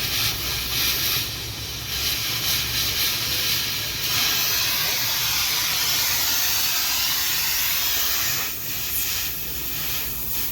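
A steady rushing hiss, at its loudest and most even from about four seconds in until near the end, over a low hum.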